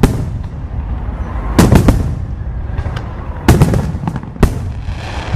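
Fireworks exploding overhead: a series of loud bangs, with a tight cluster about a second and a half in and more near the middle, over a continuous low rumble and smaller crackles.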